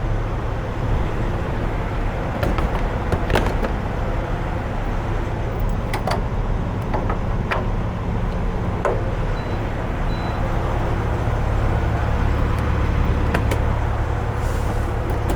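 Semi truck's diesel engine idling steadily, with a handful of short clicks and knocks scattered over it.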